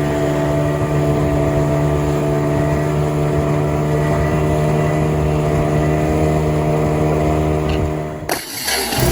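Sailing yacht's inboard diesel engine running at a steady speed: an even, unchanging hum with a strong low note and a row of steady overtones. About eight seconds in it cuts off abruptly and gives way to a rushing hiss.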